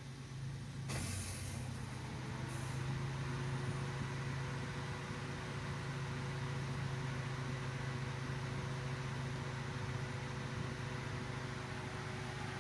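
Datsun Go+ 1.2-litre three-cylinder engine idling steadily. About a second in, a fan-like hiss and a faint rising whine that levels off join it, as something on the car switches on.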